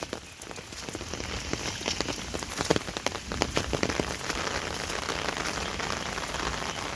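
Heavy rain falling: a steady hiss with many sharp, close drop strikes, growing louder about a second in.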